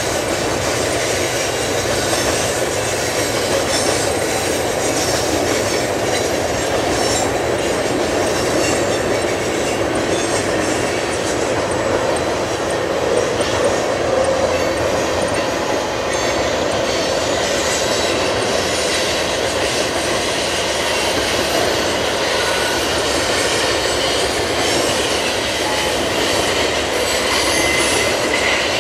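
Freight train of tank cars and covered hoppers rolling by: a steady rumble of steel wheels on rail with some clickety-clack and faint high-pitched wheel squeal at times.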